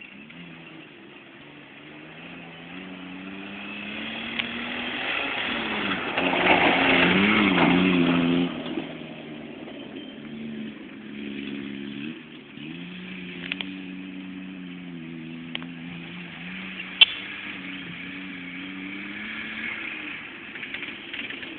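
Small Daihatsu Charade hatchback's engine revving as the car is driven over rough grass, its pitch rising and falling again and again. It is loudest and noisiest from about six to eight and a half seconds in, and a single sharp click comes about seventeen seconds in.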